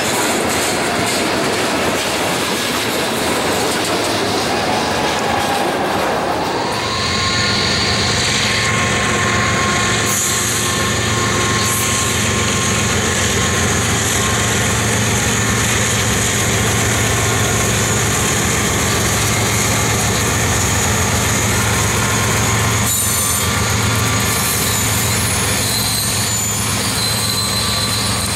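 Freight train rolling past: covered hopper cars with wheels clattering and squealing on the rails, then a CSX diesel locomotive with a steady low engine hum and wheel squeal as autorack cars follow.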